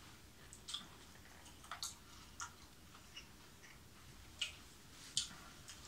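A person chewing a mouthful of raw lemon, with faint, irregular wet clicks and squelches from the mouth.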